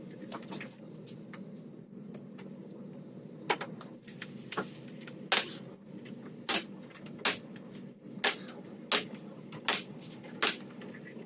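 Trim being nailed on: about ten sharp taps or shots, roughly one a second, starting a few seconds in, over a steady low hum.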